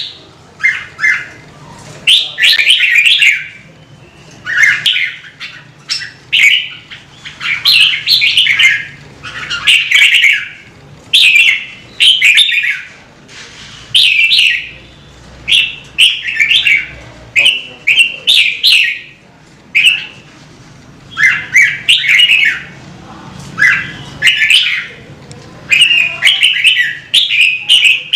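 Red-whiskered bulbul singing: loud, short warbled phrases, one after another every second or two with brief pauses between them.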